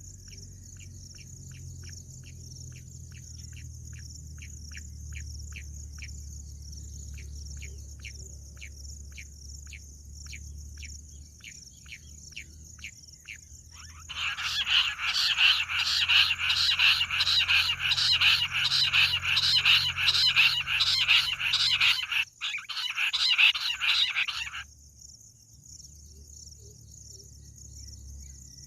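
Bush quail calling: a series of short whistled notes that quicken, then a loud, rapid chattering call for about ten seconds, breaking off briefly once. A steady high insect drone runs underneath.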